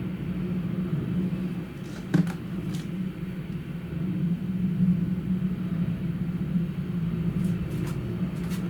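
Steady low rumble, with one sharp knock about two seconds in and a few fainter clicks near the end.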